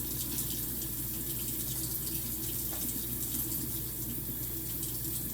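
Water faucet running steadily into a sink, turned on to a low, gentle flow.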